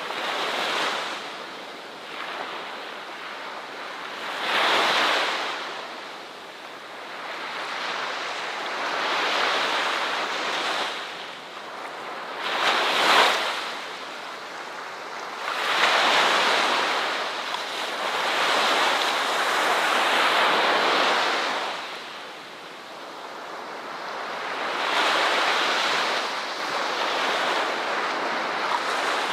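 Ocean waves breaking and washing up a beach: a steady surf hiss that swells and falls back every few seconds, with one sharper break a little before halfway.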